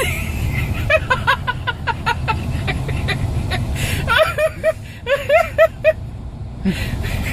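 A woman laughing in two runs of short, rapid, high-pitched bursts, over the steady low rumble of a car driving.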